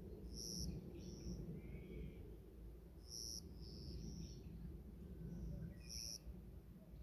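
Forest songbirds calling: a short, high call repeated about every three seconds, with fainter chirps and a brief lower warble between, over a steady low rumble.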